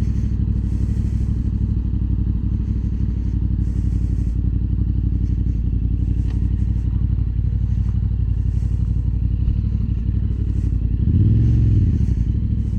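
Motorcycle engine running steadily while riding, with a brief rise and fall in revs near the end.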